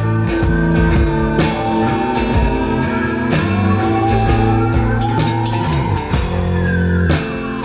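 Live rock band playing an instrumental passage: a drum kit beating steadily under sustained bass notes and guitar. A lead line bends upward in pitch midway, then slides down in one long glide near the end.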